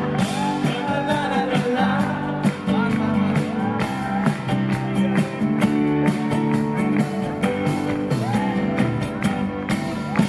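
Live pop song: a voice singing over strummed guitar and band with a steady beat.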